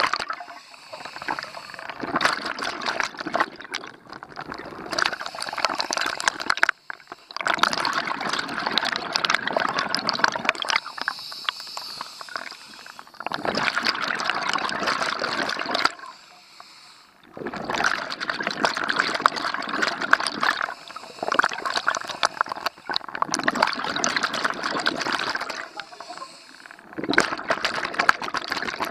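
Scuba regulator exhaust bubbles heard underwater: long gurgling rushes of bubbles from the diver's exhalations, broken by short quiet gaps while the diver breathes in.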